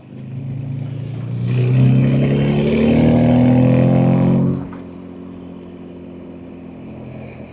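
BMW M2 G87's S58 twin-turbo inline-six, fitted with catless downpipes and an equal-length mid pipe, accelerating hard: the engine and exhaust note climb in pitch and get louder for about three seconds. The sound then drops away sharply and settles into a steady lower drone.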